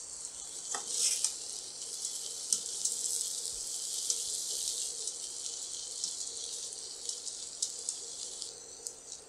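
Stir-frying in a steel pan: a steady high sizzle as rice, cabbage and vegetables are tossed, with a metal spatula clicking and scraping against the pan now and then.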